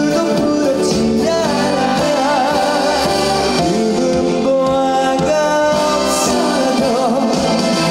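Trot song performed live: a male singer holding notes with a wavering vibrato over a steady instrumental accompaniment.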